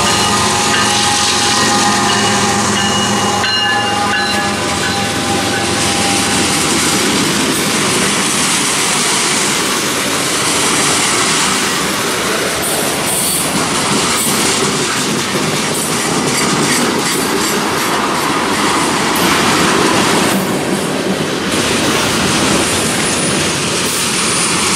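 Freight train wagons rolling past, wheels clattering over the rails, with high wheel squeal ringing over the rumble in the first several seconds.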